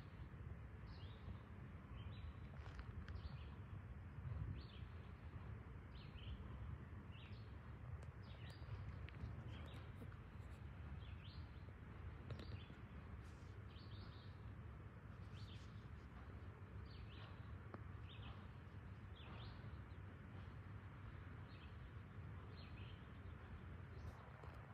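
A bird chirping over and over, short rising chirps about once a second, over the faint low rumble of a freight train of tank cars and hoppers rolling past at a distance.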